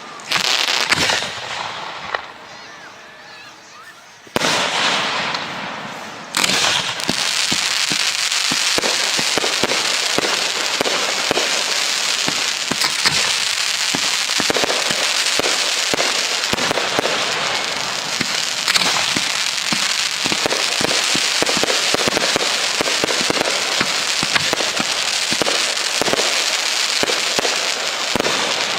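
Professional display fireworks going off: a few separate loud bursts, each dying away, in the first six seconds, then from about seven seconds in a dense, continuous crackling of many small reports that carries on to the end.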